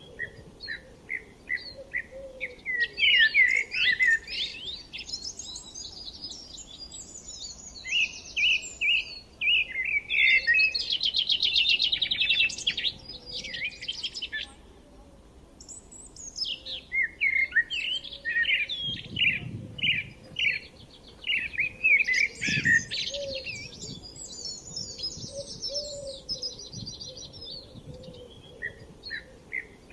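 Songbirds chirping and singing in overlapping phrases. A rapid trill comes a little before the middle, then a short lull, then the chirping starts up again.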